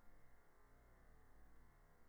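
Near silence: only a faint, steady low rumble.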